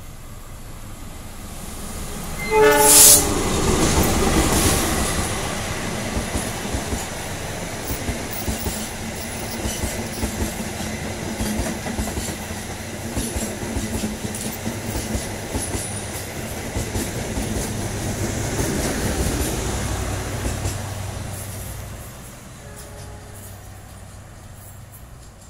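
Passenger train behind a KAI CC206 diesel-electric locomotive passing close by. About two and a half seconds in the locomotive sounds one short horn blast of several tones, then the coaches run past with their wheels clicking over the rail joints, fading away near the end.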